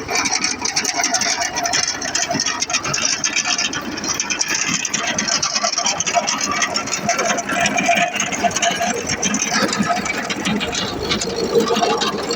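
Tractor engine running steadily under a fast, even mechanical clatter, typical of a tractor working a field implement.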